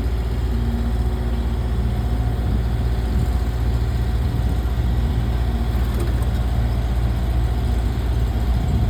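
A large engine idling steadily, a low, even drone with no change in speed.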